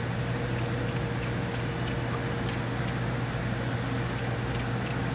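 Steady low mechanical hum with a steady higher tone above it, like a fan or other running machinery, with faint light ticks now and then.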